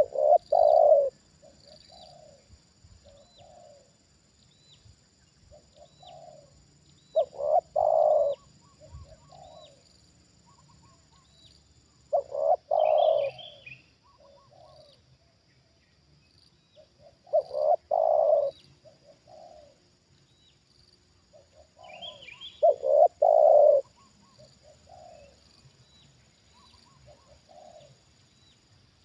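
Spotted dove cooing: five phrases about five seconds apart, each a few soft notes leading into a loud double coo and trailing off. Faint high chirps sound about once a second throughout.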